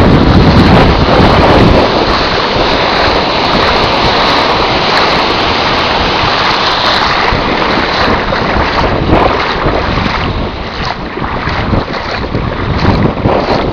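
Gusty wind buffeting the microphone over the splashing and sloshing of floodwater as people wade through it, easing somewhat near the end.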